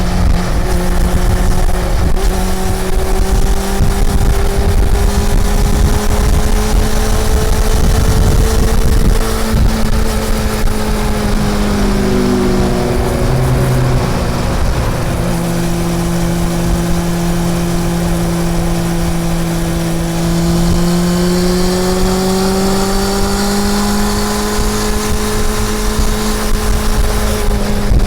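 Honda CB400 Super Four's inline-four engine running while riding, its note holding fairly steady, dipping and shifting around the middle, then climbing gradually again. A heavy low rumble sits under it throughout.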